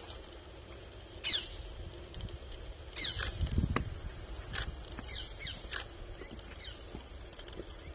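Birds calling with a scattered series of short, sharp notes that sweep downward in pitch, over a low outdoor background rumble, with a dull low thud about halfway through.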